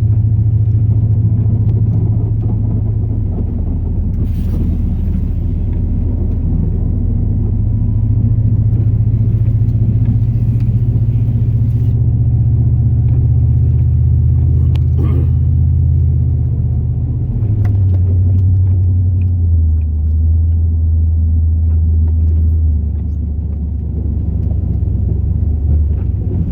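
2002 Chevrolet Silverado's 8.1-litre big-block V8 gas engine running under plowing load, a steady low rumble whose pitch drops a little about two-thirds of the way through. A couple of faint brief clicks are heard.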